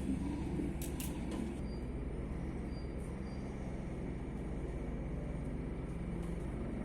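Helicopter hovering, its rotor beating steadily with a rapid, even pulse. A couple of faint clicks about a second in.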